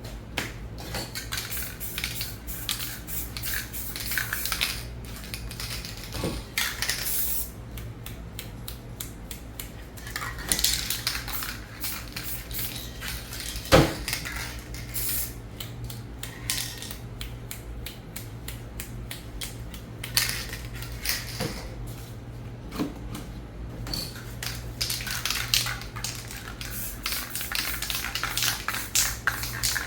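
Spray paint art being worked: clattering clicks and knocks of aerosol cans and tools, with short hissing passes of paint, and one sharper knock about 14 seconds in, over a steady low hum.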